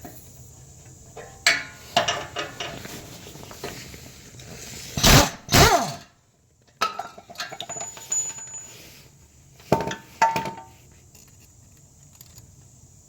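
Metal clanks and clinks of hand tools against exhaust hardware during a muffler reinstall, with the two loudest clanks about five seconds in and short ringing clinks near ten seconds.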